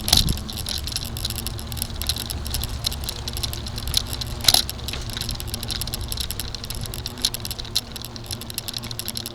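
Bicycle rattling and ticking as it is ridden, with many small irregular clicks over a steady low rumble and one louder click about four and a half seconds in.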